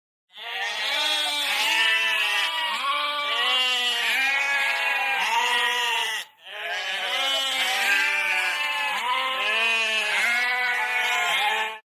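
A chorus of many overlapping animal calls, each rising and falling in pitch. It plays twice, with a brief break about six seconds in.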